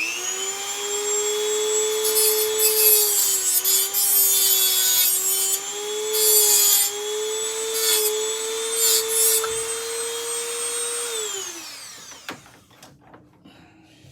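Dremel rotary tool running at high speed, cutting a slot into a stripped screw head so a flathead screwdriver will fit, with several bursts of harsher grinding as the cutter bites into the metal. The motor winds down about eleven seconds in.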